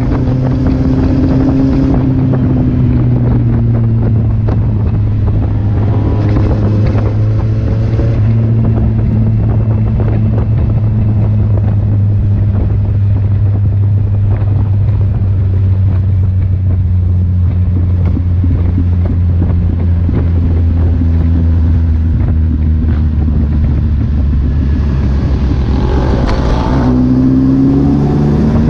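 Kawasaki Z800's inline-four engine running on the road with wind noise. Its pitch sinks slowly over about twenty seconds, then climbs quickly near the end as the throttle opens.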